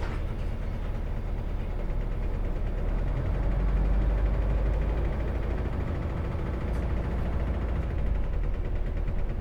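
Isuzu Erga city bus's diesel engine idling, a steady low rumble that swells slightly a few seconds in.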